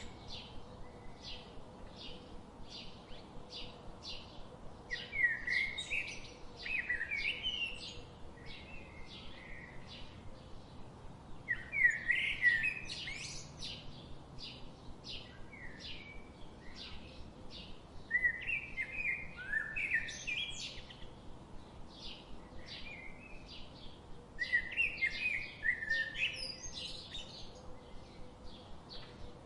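Songbirds singing: a steady series of short high chirps about twice a second, with louder warbling song phrases breaking in about every six seconds.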